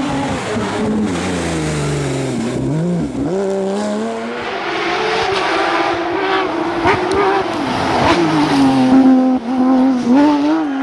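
Porsche 911 rally car's flat-six engine at speed: the revs fall for the first few seconds as it slows, then climb and dip again and again as it accelerates through the gears, loudest near the end.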